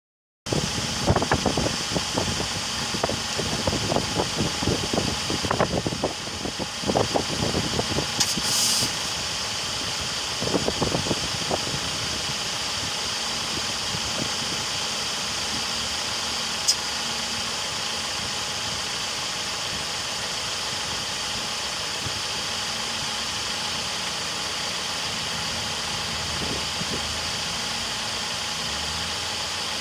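Renault Duster idling with an irregular knocking from its air-conditioning compressor, heavy through the first several seconds and again briefly around ten seconds in, then the engine runs steadily.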